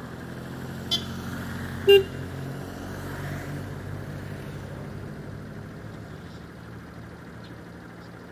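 Bajaj Pulsar RS200's single-cylinder engine idling steadily, with a faint click about a second in and a short, loud beep about two seconds in.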